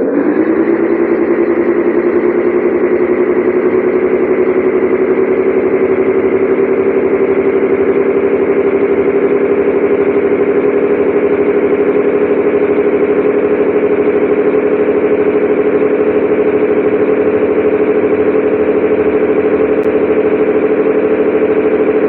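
Scania 113H 360 truck's diesel engine pulling steadily under load, its revs climbing slowly and evenly through one gear.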